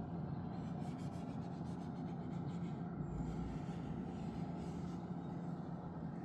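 Eberspächer diesel heater running, a steady noisy hum with a constant low drone.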